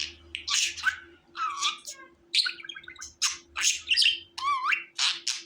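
Budgerigar chirping and warbling: a quick string of short chirps and scratchy squawks, with a few warbled notes that glide up and down in pitch.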